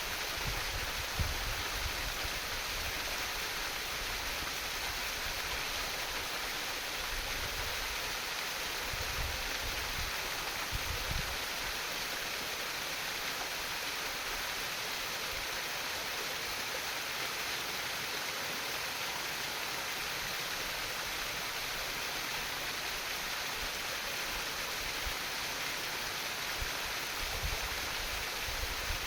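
A small stream or river of water trickling and babbling steadily over rocks. A low rumble rises and falls a few times underneath.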